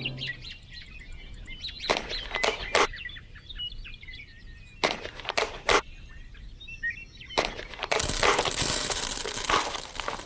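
Small birds chirping, with sharp knocks in two sets of three and a hissing stretch of about two seconds near the end.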